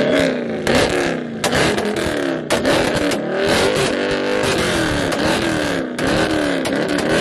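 A car engine revved hard over and over, its pitch climbing and dropping about once a second, with sharp exhaust pops in between.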